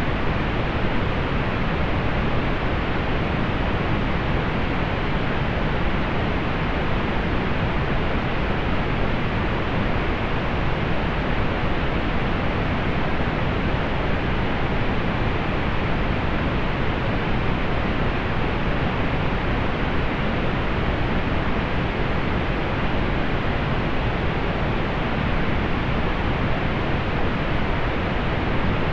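Steady synthetic pink noise: an even hiss weighted toward the low end and rolled off in the highs, unchanging throughout.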